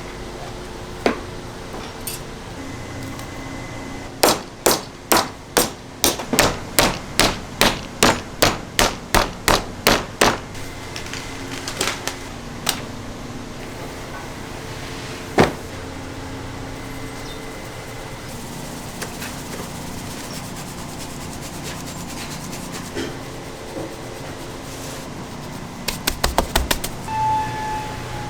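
Meat being struck hard on a cutting board: a steady run of about sixteen blows at roughly two and a half a second, then a few single knocks and a quick cluster of strikes near the end.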